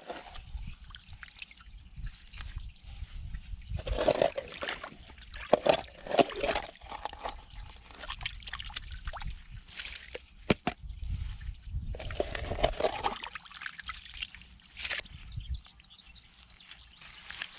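Water and wet mud sloshing and splashing in irregular bursts, with a couple of sharp knocks about ten seconds in.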